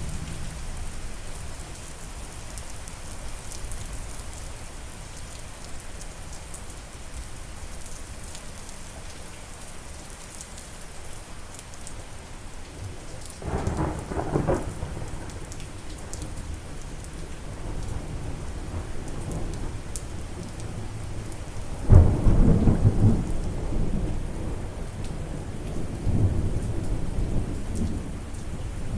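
Steady rain falling, with thunder: a short low rumble about halfway through, then a sharp, loud clap about three-quarters of the way in that rolls on as rumbling.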